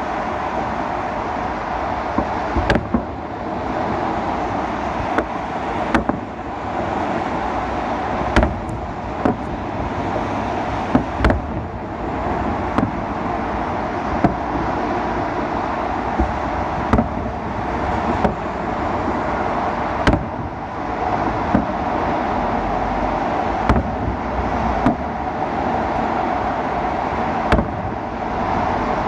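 Festive fireworks salute going off, with sharp bangs at irregular intervals, about one every second or two, over a steady rush of city background noise.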